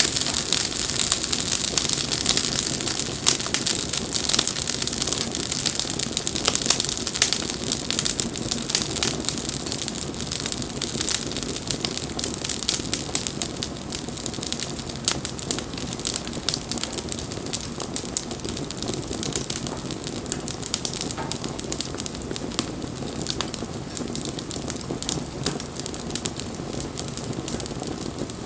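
Wood bonfire crackling and hissing, with a dense run of sharp pops and snaps, easing off a little in loudness toward the end.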